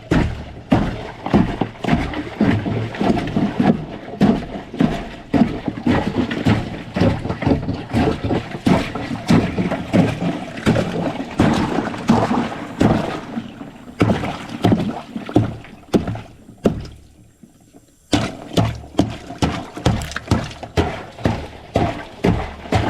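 Frozen ice bath in a chest freezer being smashed up: repeated strikes about twice a second, with ice chunks knocking and sloshing in the water, and a short pause about three-quarters of the way through.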